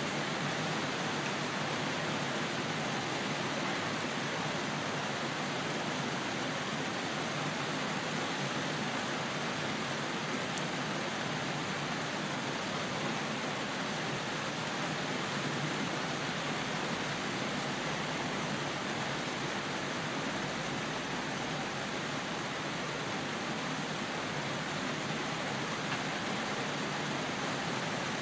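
Steady rain, an even hiss with no breaks or separate sounds.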